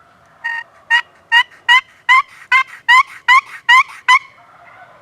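Turkey call sounding a hen yelp series: about ten evenly spaced yelps in some four seconds, calling to a gobbler.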